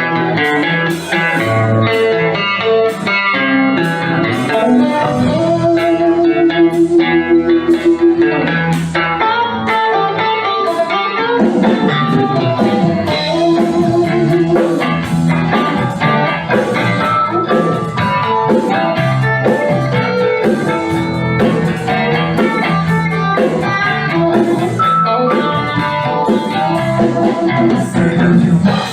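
A band playing an instrumental song intro: guitar over a steady drum beat, with a quickly repeated guitar note about a quarter of the way in.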